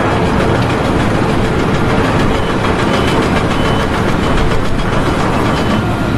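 A large engine running steadily and loudly, with a low hum under a dense mechanical noise.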